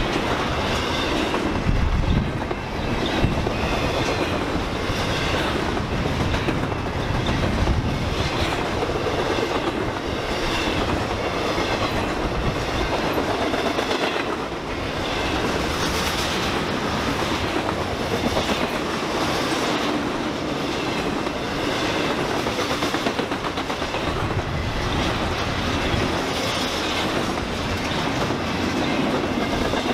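Railroad cars rolling steadily past, the wheels clattering in a regular clickety-clack over the rail joints.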